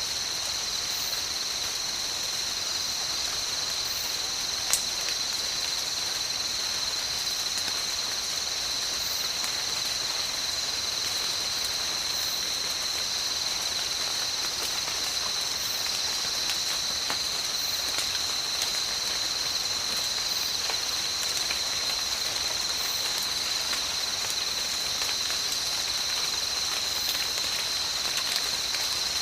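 Steady tropical rain falling, with scattered drop hits and one sharper tap about five seconds in. A continuous high-pitched drone sits over the rain throughout.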